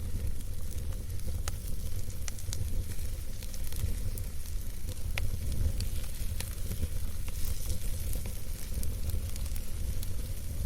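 Wood campfire burning, with soft scattered crackles and pops over a steady low rumble of the flames.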